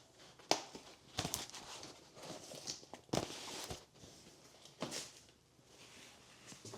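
Household items being handled: four sharp knocks or clacks with rustling and scraping between them.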